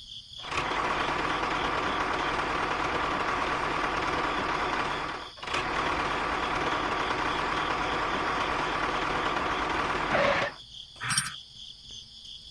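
A steady mechanical running noise, like a small motor or engine, that cuts out briefly about five seconds in and stops at about ten seconds.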